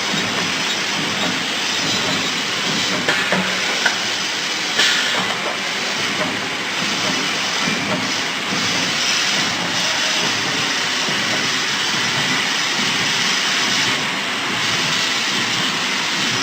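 VELOS 800DD plastic bag-making machine running: a steady mechanical hiss and clatter, with a few sharp clicks about three to five seconds in.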